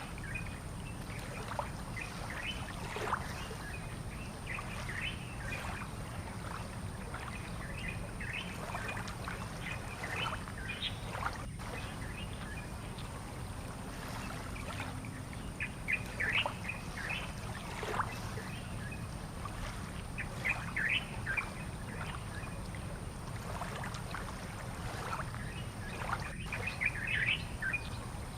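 Small birds chirping in short, scattered calls, several at a time now and then, over a steady low background rumble.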